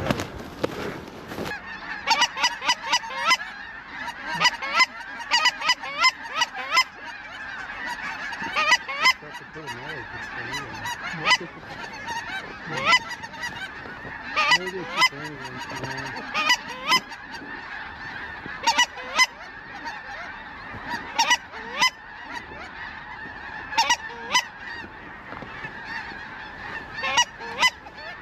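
A large flock of snow geese calling: a dense, steady chorus of distant honking, with sharp, close single calls coming in quick clusters throughout.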